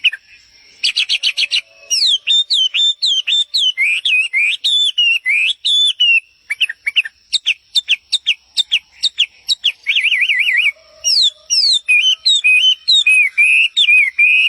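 A songbird singing a long, varied song of quick sliding whistled chirps, with a fast warbling trill about ten seconds in.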